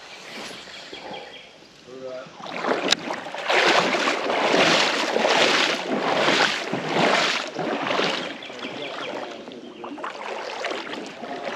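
Creek water splashing and sloshing in a run of about six regular surges, roughly one a second.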